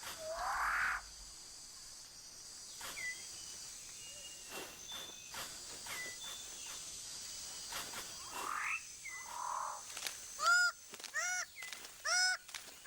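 Birds of paradise calling in New Guinea rainforest over a steady high insect drone: a rising call at the start and again about two-thirds of the way through, scattered short calls, then near the end a run of loud honking calls a little under a second apart.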